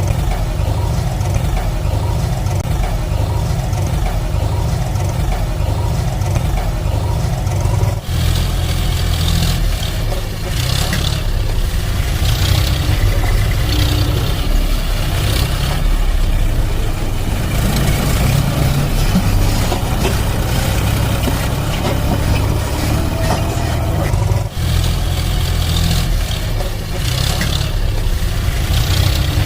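Heavy vehicle engine running steadily, changing abruptly about eight seconds in and again near the end.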